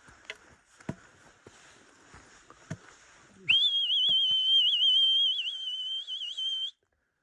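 Soft scattered steps and knocks, then about three and a half seconds in a long, loud whistle that wavers slightly in pitch, held for about three seconds and cut off abruptly.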